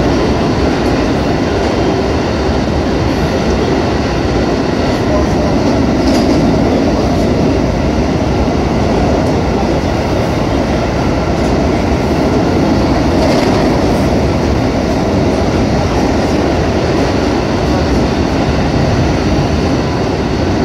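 Running noise of a JR West 221 series electric train at speed, heard from inside the leading car: a steady rumble of wheels on rail as it crosses a steel truss bridge.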